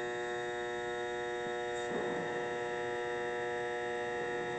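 Bridgeport Series I milling machine's 2 horsepower head running in low range: a steady machine hum with a whine of several pitches that holds constant.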